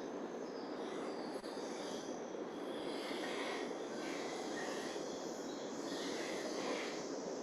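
A train passing in the distance: a steady rolling noise that swells and fades slightly, with no clear rhythm.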